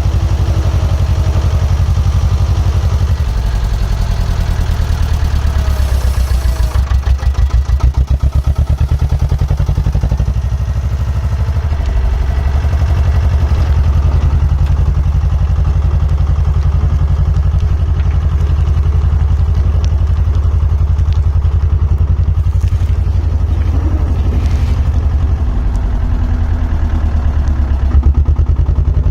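Diesel engine of construction plant running steadily and working, its pitch shifting about eight seconds in and again near the end.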